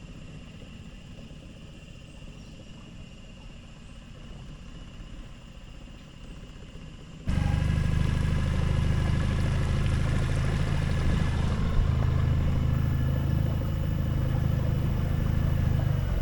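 Small outboard motor on a dinghy: a faint steady low running at first, then, from a sudden jump about seven seconds in, loud steady running at higher power.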